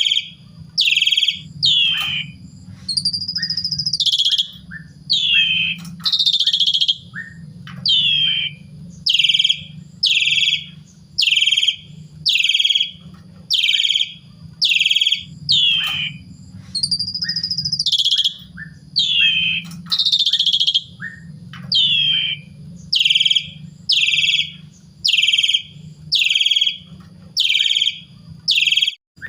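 Jalak suren (Asian pied starling) in full song: loud, harsh calls repeated about once a second, most of them quick falling notes, with a few longer rising-and-falling whistles mixed in. A steady low hum runs underneath.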